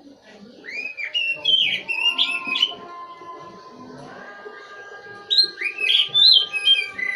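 Oriental magpie-robin (kacer) singing: two bursts of rapid whistled phrases with quick rising and falling notes, about a second in and again past the five-second mark.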